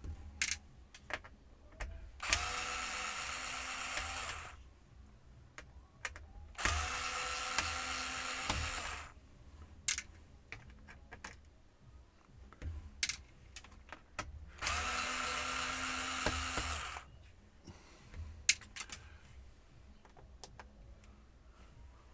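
Small electric screwdriver whirring in three runs of about two seconds each, backing screws out of a laptop's base. Short clicks and taps from the screws and the case come between the runs.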